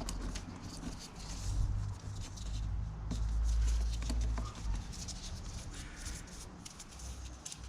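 Light clicks, taps and rustles of small hand tools being handled, over a low rumble that swells from about one and a half to four and a half seconds in.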